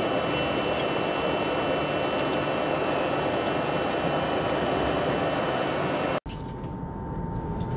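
Steady rolling noise of a passenger train running at speed, heard from inside the carriage. It drops out abruptly about six seconds in and comes back quieter, with a faint steady hum.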